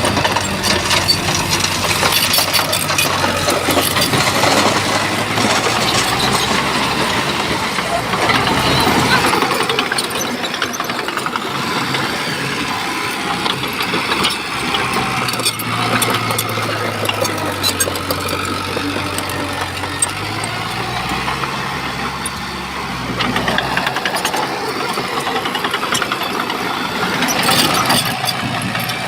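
Shantui bulldozer's diesel engine working, its pitch shifting up and down with the load, under a steady scatter of clattering and knocking from tracks and stones.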